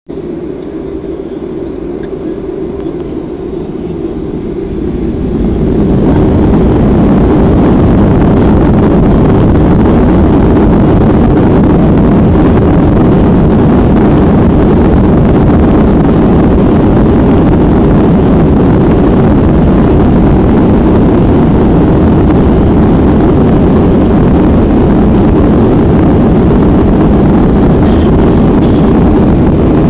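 Boeing 737-800's CFM56 turbofan engines spooling up over the first six seconds or so, then a loud, steady roar at takeoff power.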